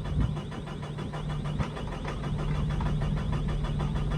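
Kubota SVL97's diesel engine being cranked by the starter, turning over in a fast, even rhythm without firing yet: it is fuel-starved after the tank ran dry, and fuel is still being drawn through.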